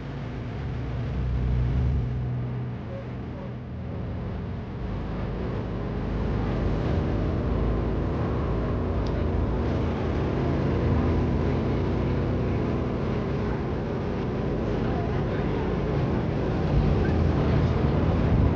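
Steady low rumble of outdoor background noise, engine-like, with a general hiss above it.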